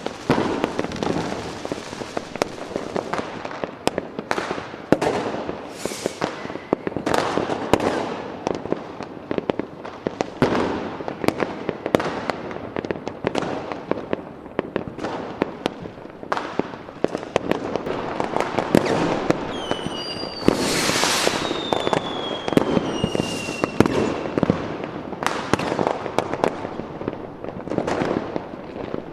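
Fireworks going off continuously, with dense, rapid bangs and crackling throughout. About twenty seconds in, a whistling firework sounds with a falling whistle.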